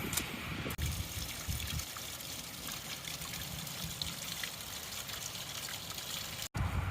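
Water trickling steadily, broken by two brief dropouts, one near the start and one near the end.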